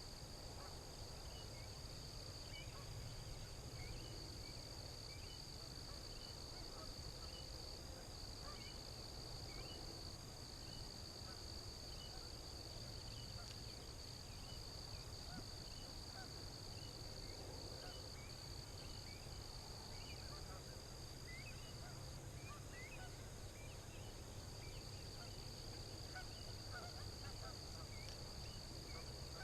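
Faint outdoor ambience: a steady high-pitched insect drone, with many short bird chirps scattered through it over a low rumble.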